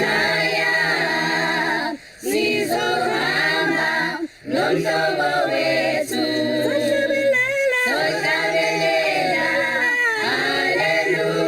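A choir of voices singing unaccompanied, in phrases broken by short pauses about two and four seconds in.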